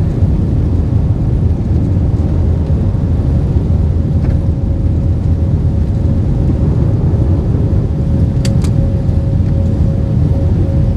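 Steady loud cabin rumble of an Airbus A320-232, its IAE V2500 engines running, heard inside the cabin by the wing. A faint steady hum comes in about four seconds in, and there are two quick clicks past the middle.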